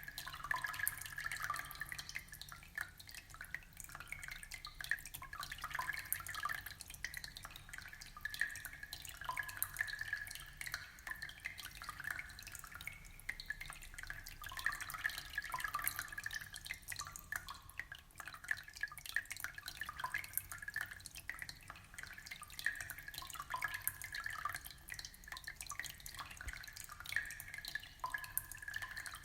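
Aquarium water bubbling and trickling steadily, with many quick drips and small bubbly plinks.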